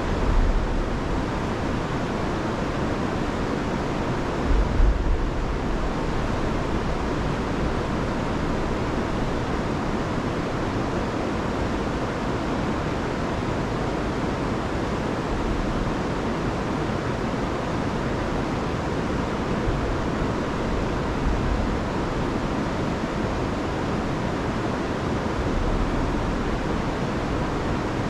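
Rain-swollen river rushing over waterfalls in a steady roar of water, with a few brief low rumbles of wind on the microphone.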